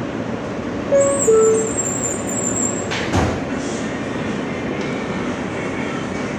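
R160 subway car's door-closing chime: two short tones, the second lower, about a second in, followed by the doors thudding shut just after three seconds. The car's steady rumble runs underneath.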